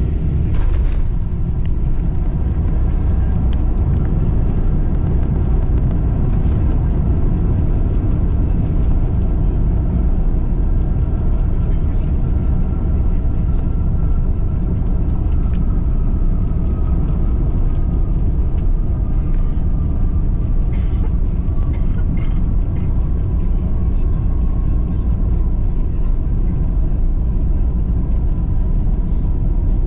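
Airbus A330 cabin noise: a steady deep rumble of engines and airflow, with a faint whine that slowly falls in pitch.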